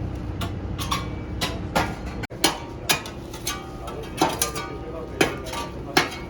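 Irregular sharp metallic clinks and knocks, about two a second, several ringing briefly, over a steady low hum.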